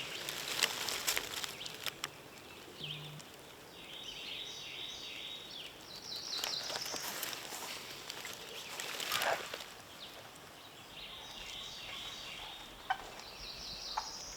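Woodland ambience: songbirds repeating high trills, with two stretches of crackly rustling in dry leaves, in the first couple of seconds and again about six to nine seconds in.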